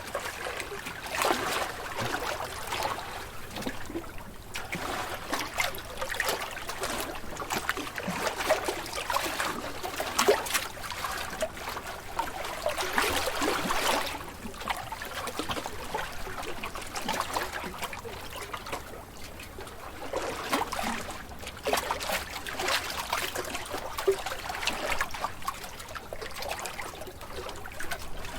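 Small sea waves lapping and splashing, a continuous wash of water that swells and eases irregularly every few seconds.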